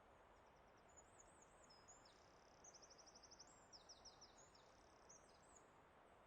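A songbird singing quietly: a run of high, quick chirps and whistled slurs with a fast trill in the middle, over a soft, steady background hiss of forest ambience.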